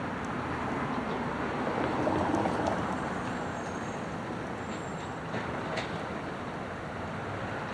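Garbage truck running nearby: a steady engine and road rumble that swells briefly about two seconds in, with a few faint clicks.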